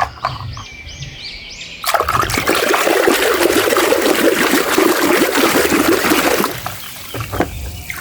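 Water poured or sprayed onto a muddy toy model, a steady rush that starts about two seconds in and stops about six and a half seconds in.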